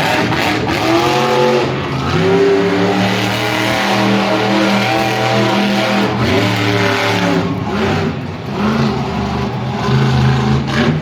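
Monster truck engine revving hard, its pitch climbing and falling again several times.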